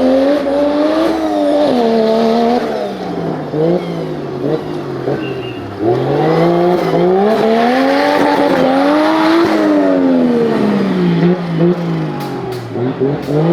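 Off-road 4x4 competition vehicle's engine revving hard under load, its pitch rising and falling in long swells: it peaks early, sags over several seconds, climbs to a second peak about nine seconds in, drops again, and starts rising near the end.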